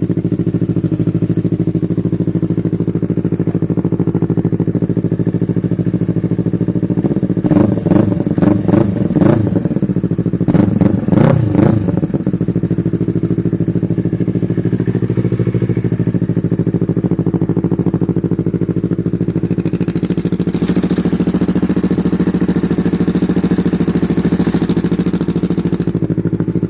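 Yamaha MT-03 parallel-twin engine idling steadily through a home-made full exhaust system, with two bursts of quick throttle blips between about 7 and 12 seconds in before it settles back to idle.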